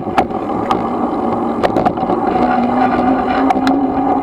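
Electric dirt bike's motor and drive whining steadily while riding, its pitch creeping up slowly as it gathers speed, over wind rush and scattered clicks and knocks from the bike.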